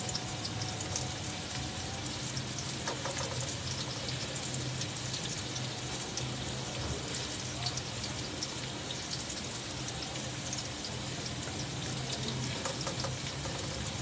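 Sliced onions sizzling and crackling in hot oil in an aluminium pot over a high flame, stirred with a spatula, with a couple of brief scrapes against the pot. A steady low hum runs underneath.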